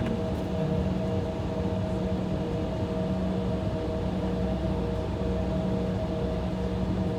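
Steady cabin hum inside an Embraer E175 airliner idling on the taxiway, a constant rushing noise with a few unchanging low and mid tones running through it.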